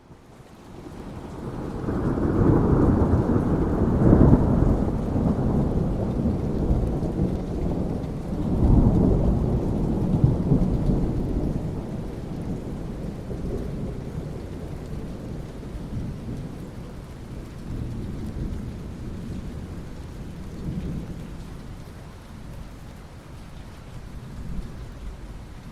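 Thunder rolling over steady rain. A low rumble swells about two seconds in, peaks twice, then slowly fades, leaving the rain hiss.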